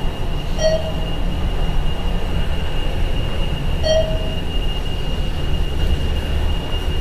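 Thyssenkrupp Synergy traction elevator car travelling upward: a steady low rumble with a thin, steady high whine, and a short electronic chime three times, about three seconds apart.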